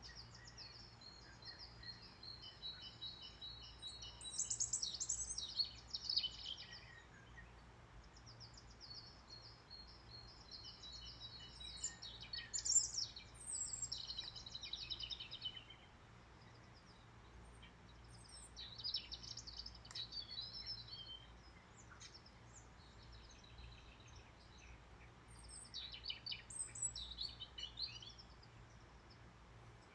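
Small birds chirping and twittering in quick, high-pitched bouts, four flurries with short lulls between them, over a faint steady hum.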